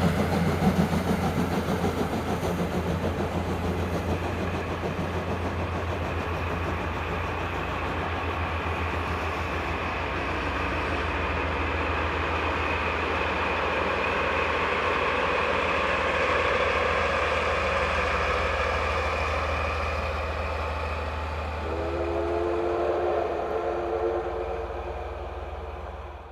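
JNR Class D51 steam locomotive working hard up a steep grade, its exhaust beats (the drafting sound) running continuously over a steady low rumble from the DD16 diesel helper engines. A train whistle blows for about four seconds near the end.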